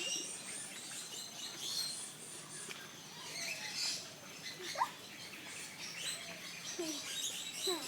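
Many birds chirping and calling together: a dense run of short, high twittering chirps with a few lower, sliding calls mixed in.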